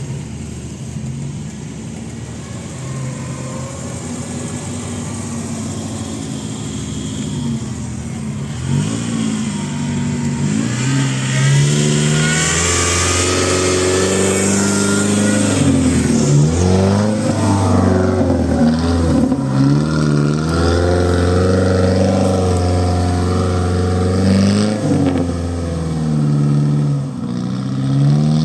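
A car engine running, then from about nine seconds in revving hard, its pitch rising and falling again and again.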